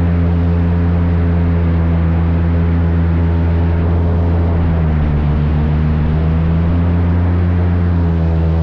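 Airboat's engine and air propeller running under way as a loud, steady drone; the pitch dips slightly about five seconds in.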